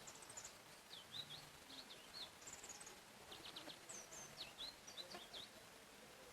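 Faint songbirds chirping in a forest: several quick clusters of short high chirps and sweeping notes over a soft background hiss.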